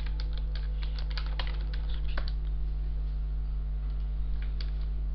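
Computer keyboard typing: a quick run of keystrokes in the first two seconds or so, then a few scattered keystrokes later. A steady electrical hum runs underneath.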